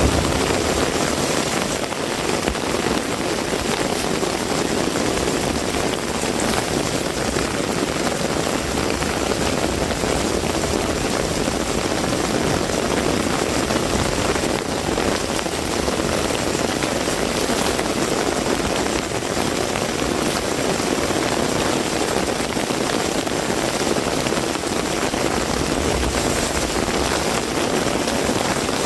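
Heavy rain pouring steadily, a dense, even hiss of rain on surfaces that holds at a constant loud level throughout.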